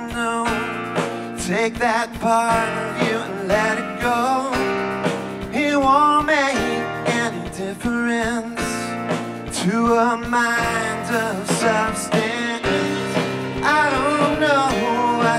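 Live indie rock band: a man singing lead over a Nord stage piano, electric guitar, drums and bass.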